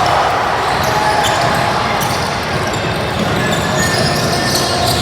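Basketball being dribbled on an indoor court, with the mixed din of a game: players' shoes on the floor and spectators' voices in the background.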